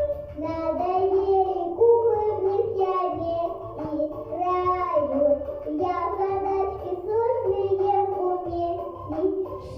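A young girl singing a melody over a backing track with a steady bass line.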